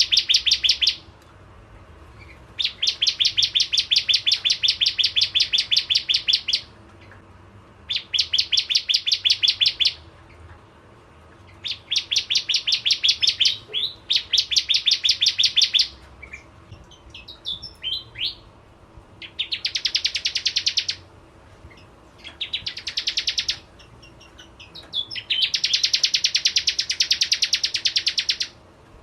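Bar-winged prinia (prenjak jawa) singing: fast trills of evenly repeated high notes in bursts of one to four seconds, with short pauses and a few loose chirps between them.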